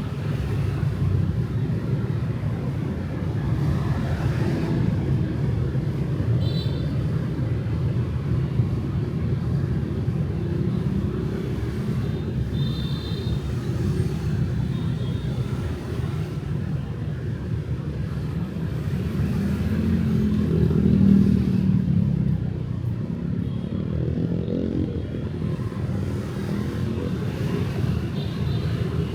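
Light street traffic of cars and motorbikes: a steady low rumble, swelling as a vehicle passes close about twenty seconds in, with a couple of brief high tones.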